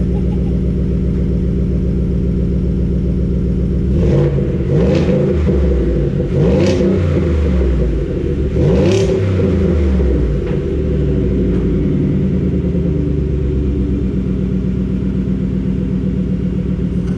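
Ford F-150's 5.0 L V8 breathing through a freshly fitted MBRP cat-back exhaust. It idles, is revved in several quick blips between about four and ten seconds in, then settles back to a steady idle.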